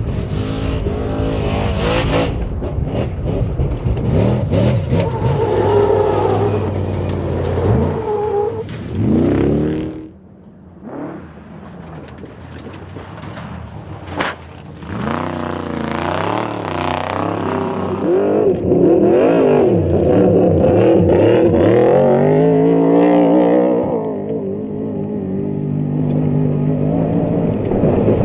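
Off-road racing truck engines revving hard and passing by, their pitch sweeping up and down. The sound drops away briefly near the middle, with a sharp knock shortly after, before the revving picks up again.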